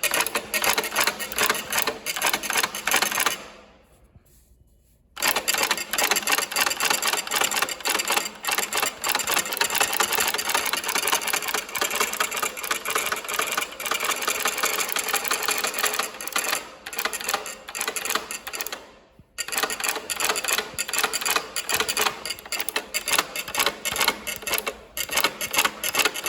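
Industrial sewing machine running, its needle and hook mechanism clattering fast and evenly as it sews loose, looped stitching. It stops about three and a half seconds in, starts again a second and a half later, and falters briefly around 19 seconds.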